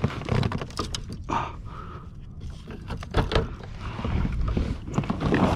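Sounds from a fishing kayak on open water: water slapping and sloshing against the hull with irregular knocks and clicks of gear being handled, the loudest knock about three seconds in, over a low rumble of wind on the microphone.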